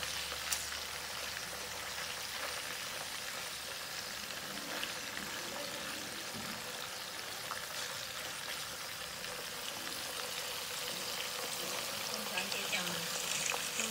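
Chicken wings and pork slices with garlic sizzling in hot oil in a frying pan: a steady hiss, with a light click of metal tongs about half a second in.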